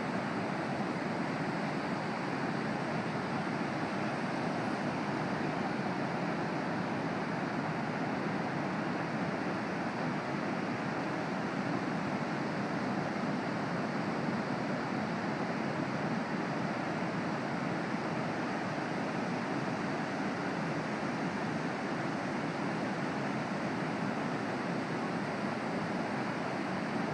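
Pacific Ocean surf, a steady, unbroken rush of breaking waves.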